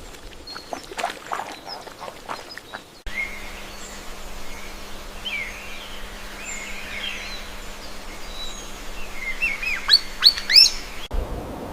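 Birds chirping: scattered short calls over a faint steady hum, ending in a louder quick run of sharp, falling chirps.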